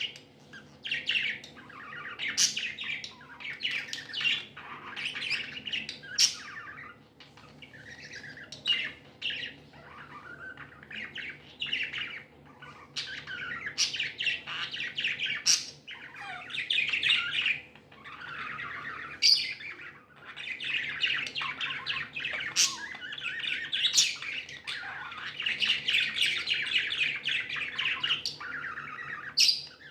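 Several budgies chirping and chattering continuously, with sharp, louder squawks here and there.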